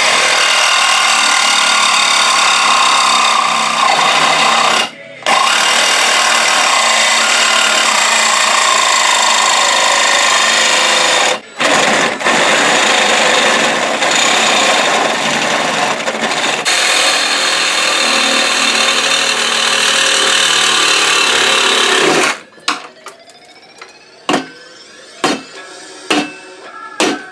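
Reciprocating saw (Sawzall) running and cutting in long steady stretches, with two brief pauses, about 5 and 11 seconds in. It stops about 22 seconds in, followed by a few separate clinks and knocks.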